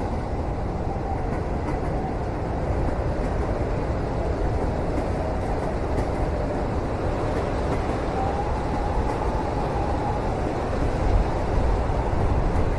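Steady low rumble of a train in motion heard from inside a passenger cabin, with a faint wavering whine and a few louder knocks near the end.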